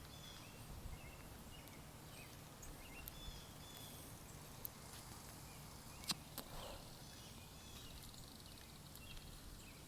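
Faint outdoor background with small birds chirping in the distance, short scattered chirps throughout, and a couple of sharp clicks about six seconds in.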